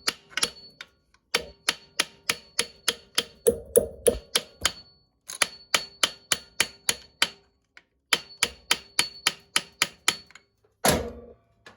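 Hammer blows on a seized dirt-bike swingarm bolt, each ringing metallically, coming about four a second in several bursts with short pauses between, and a heavier hit near the end. The blows are driving out a bolt that had seized in the frame.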